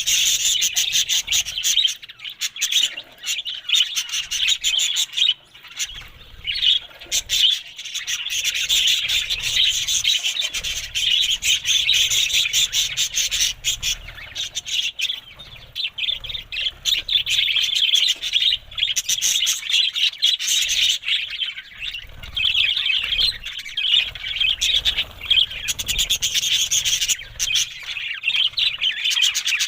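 Budgerigars chattering and warbling, a dense run of rapid chirps.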